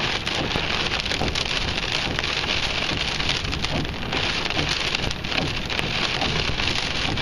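Heavy storm rain pattering steadily: a dense hiss full of small drop hits, in gusty windstorm conditions.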